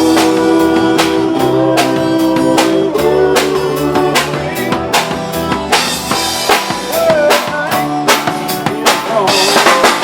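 Live band playing an instrumental passage between vocal lines: a drum kit keeps a steady beat under sustained guitar chords, with a lead line of bending notes after the middle.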